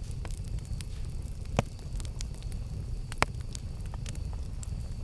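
Campfire burning, with a steady low rumble and wood crackling in scattered snaps. Two sharp pops stand out, about one and a half seconds in and about three seconds in.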